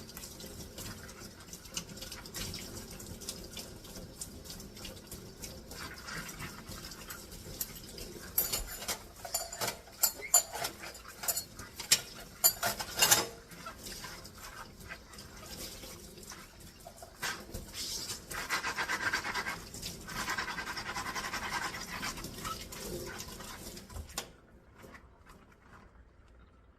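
Dishes being washed by hand at a kitchen sink: water running from the tap, with a cluster of sharp clinks of dishes and cutlery in the middle and louder water splashing later. The sound stops suddenly near the end, as the tap is shut off.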